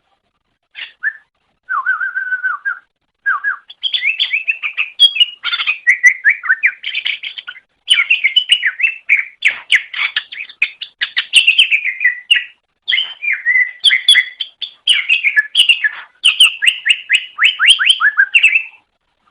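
Cucak ijo (green leafbird) singing a fast, varied song of chirps, trills and whistled notes in bursts, with short pauses between phrases.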